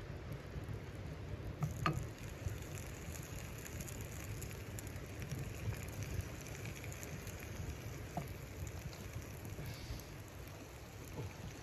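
Steady patter of a snowstorm on tent fabric, with a few faint sharp clicks.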